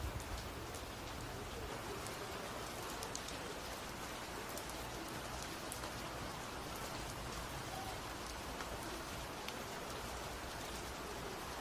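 Steady rain falling during a thunderstorm, an even hiss with many small drop ticks.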